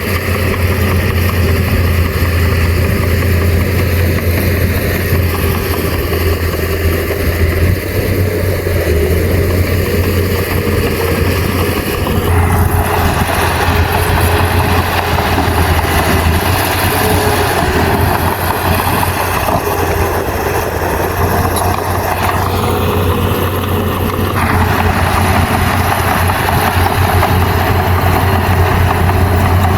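Bulldozer's diesel engine running steadily under work, with a strong low drone. Its sound shifts about twelve seconds in and again near twenty-four seconds.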